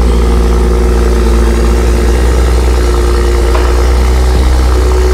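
A 2011 BMW E90 335i's turbocharged inline-six idling steadily.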